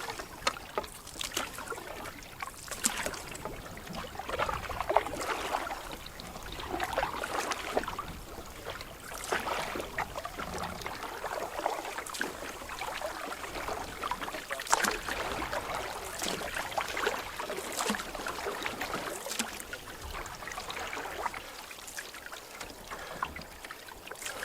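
Canoe paddle strokes in the water, each a short splash followed by the trickle of drips off the blade, repeating every second or two.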